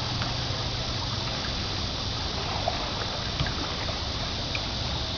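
Creek water running and trickling steadily, with a few faint small ticks.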